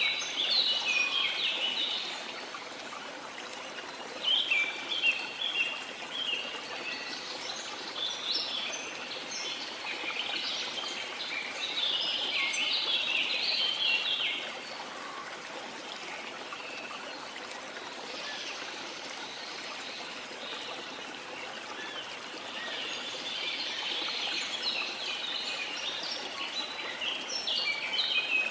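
Steady rush of a waterfall, with songbirds chirping quickly in bursts of a few seconds, separated by short stretches of water alone.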